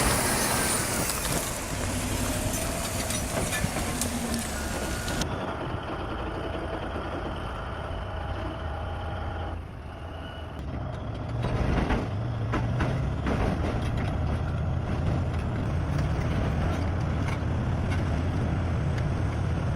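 Heavy diesel engine of a bulldozer running and working, a steady low drone that changes abruptly about five seconds in.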